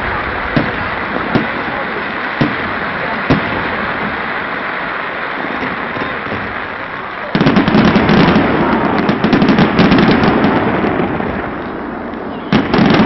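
Fireworks going off: a few single bangs over a steady background hiss, then, about seven seconds in, a dense run of rapid crackling bangs lasting several seconds, with another rapid run starting near the end.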